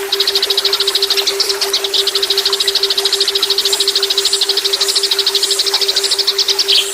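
Recorded songbird 'tembakan' song: one long, rapid trill of evenly repeated high notes, more than ten a second, lasting about six seconds and breaking into a few separate chirps near the end. Under it runs a steady low hum, the added brainwave tone.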